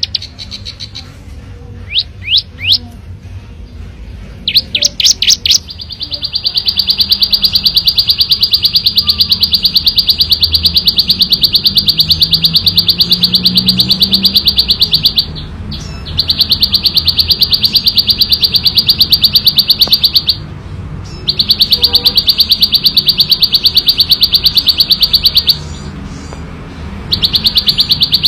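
Ciblek sawah (a prinia) singing: a few short, quick chirps, then long, fast trills of rapidly repeated high notes. The trills come in bouts several seconds long, with brief pauses between them.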